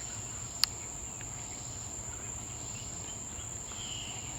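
Steady high-pitched drone of insects (crickets or cicadas), with a few faint bird calls near the end that are taken for a Carolina wren. A single sharp click comes about two-thirds of a second in.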